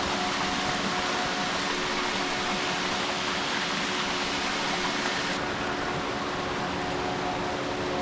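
Waterfall: a steady rush of falling water. The higher hiss drops slightly about five seconds in.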